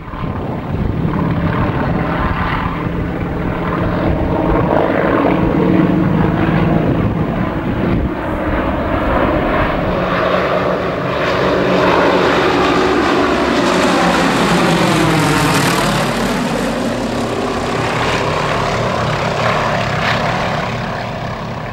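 Single-engine propeller aerobatic trainer with a nine-cylinder radial engine running at high power in flight. About two-thirds of the way in, the tone sweeps down and back up as the aircraft passes close.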